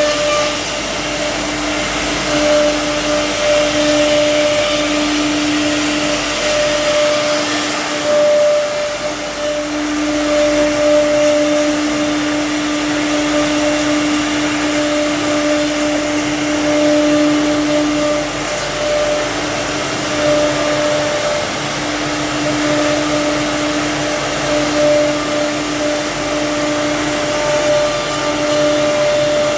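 CNC router carving a decorative crown pattern into wood: the spindle runs with a steady whine over the hiss of the cutting, the whine growing stronger and weaker as the bit works.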